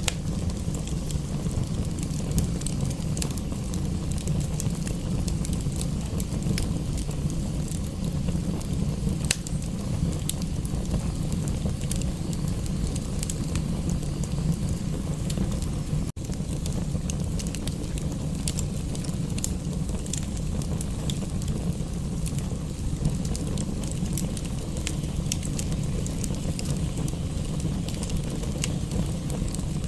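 Wood fire crackling, with frequent sharp pops over a steady low rumble and a soft hiss of rain. The sound dips out for an instant about sixteen seconds in.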